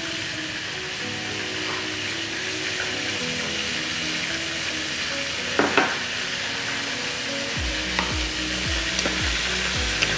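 Rice and cumin seeds sizzling steadily in hot oil in a nonstick pan as water is added, with a few sharp knocks of a utensil against the pan about halfway through and near the end.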